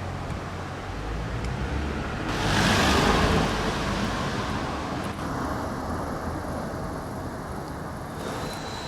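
Street traffic rumbling steadily, with one vehicle passing close by about two and a half seconds in, loudest for about a second and then fading.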